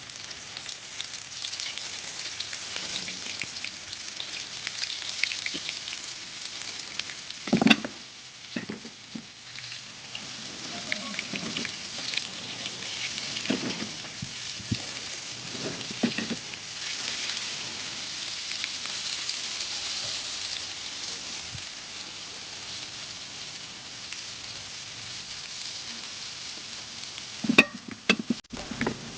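Fish frying in hot oil in a pan, a steady sizzle with fine crackling. A few knocks stand out over it, one about a quarter of the way in and a short cluster near the end.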